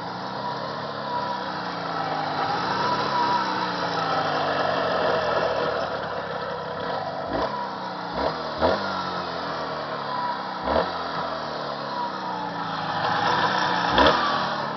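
Jawa 638's two-stroke twin engine running during break-in, revved up and down so its pitch rises and falls; the owner judges it to be running normally. A few sharp knocks, the loudest near the end.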